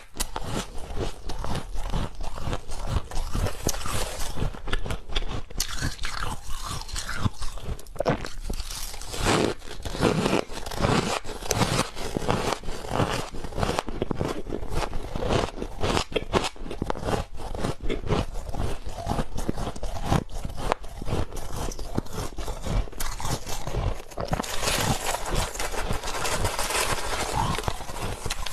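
Ice being bitten and chewed: a continuous run of irregular crunches and sharp cracks, growing into a thicker, grinding crunch near the end.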